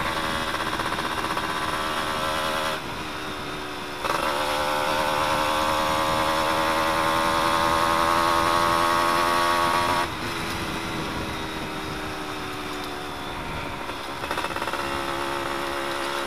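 Suzuki F1ZR's two-stroke single-cylinder engine running with its exhaust baffle removed, so the open exhaust is really loud. The engine note rises in level and pitch about four seconds in, holds there, then drops back around ten seconds in as the throttle eases.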